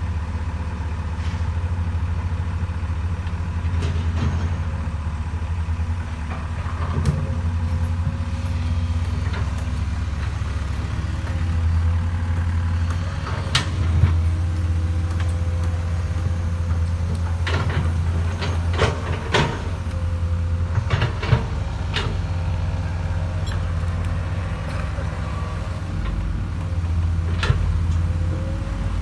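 Diesel excavator engine running steadily with a low rumble and a steady whine. A few sharp knocks and clanks come through, most of them in the second half.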